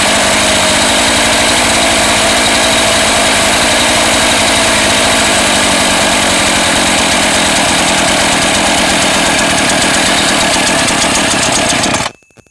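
NEO-TEC NH 841 two-stroke gas chainsaw running steadily at a high idle, fast enough to make the chain creep: the carburetor's idle adjustment is set too high. The engine cuts off suddenly near the end.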